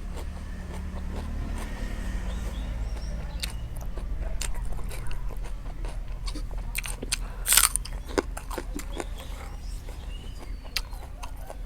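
A person chewing and crunching food close to the microphone, with irregular crunches and a loud crunch about seven and a half seconds in.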